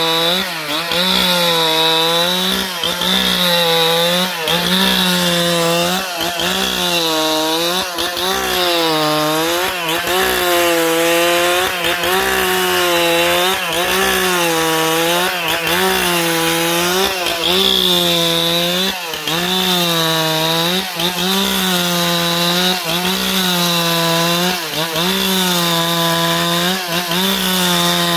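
Husqvarna 395 XP chainsaw, a large two-stroke, running at high revs while cutting wood. Its engine pitch sags and climbs back about every second and a half as the chain loads in the cut.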